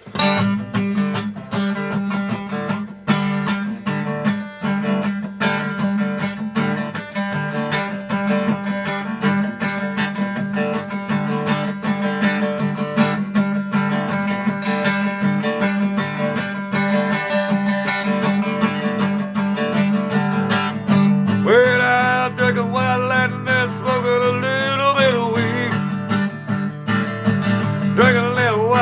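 Acoustic guitar strummed steadily as the introduction to a song. About two-thirds of the way through, a wavering melody line that bends in pitch joins over the guitar.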